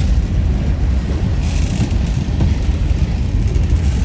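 Freight cars of a passing manifest train rolling by, a steady low rumble with wind buffeting the microphone.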